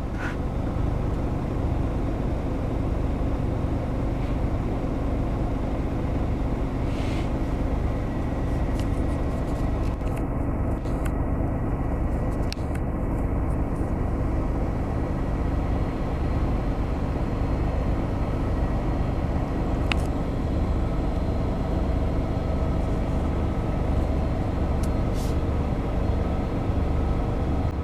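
Class 66 diesel freight locomotive's engine running steadily at low revs as it creeps past at walking pace with a loaded train: an even, low drone that neither rises nor falls.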